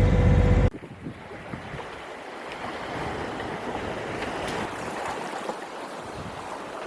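Sea and wind noise aboard a sailboat under way, with water rushing past and wind on the microphone. Under a second in, a louder low hum cuts off abruptly.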